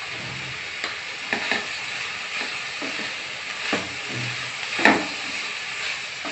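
Vegetables and soya chunks frying and sizzling in oil in a pan while a wooden spatula stirs them, with a few short scrapes and knocks of the spatula against the pan; the loudest knock comes nearly five seconds in.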